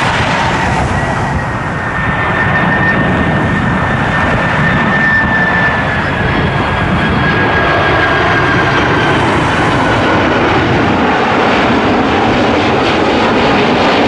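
Jet engines of a Boeing 767 airliner on its landing approach: a loud, steady noise with a high whine that slowly falls in pitch, swelling over the first two seconds.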